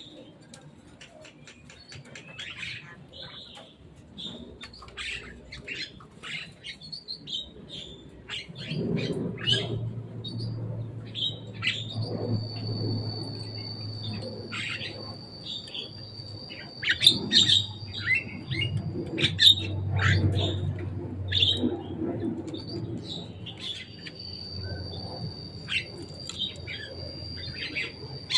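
Javan myna calling: a rapid run of short, varied chirps, squawks and whistles. About twelve seconds in, a steady high-pitched tone joins, with a low hum underneath.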